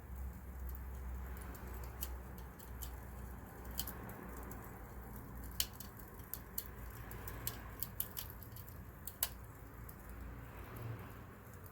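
Wood campfire burning, crackling with irregular sharp pops, the loudest a little after five seconds and just after nine seconds, over a steady low rumble.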